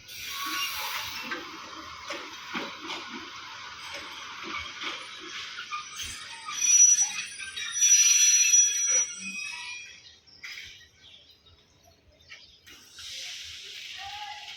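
Passenger train running on the rails, a steady rushing noise with scattered knocks. About seven seconds in it gets louder, with a thin high metallic squeal held for about two seconds. It then drops away briefly before the running noise returns near the end.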